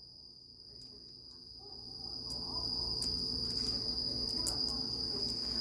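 Campfire burning, with scattered sharp crackles and pops and a low rush of flame that grows louder about two seconds in, over a steady high-pitched trill.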